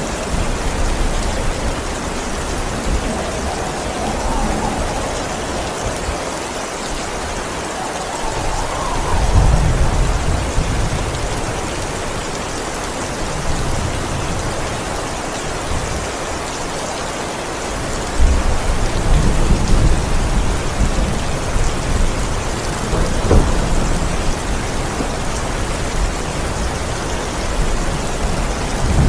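Steady heavy rain with rolling thunder. Low rumbles swell about a third of the way in and again past the middle, followed by a sharper crack.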